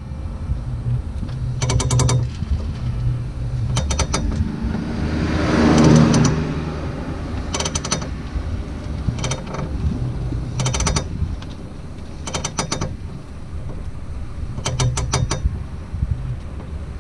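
Failing CV axle joint on a 2002 Ford Focus Mk1 clicking in quick bursts of several clicks, repeating about every one and a half to two seconds, over the low hum of the car. A swell of rushing noise rises and falls around the middle.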